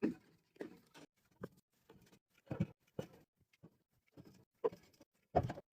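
Drink bottles and containers being set down and slid into place on shelves one at a time: about a dozen short, irregular clacks and taps with silence between.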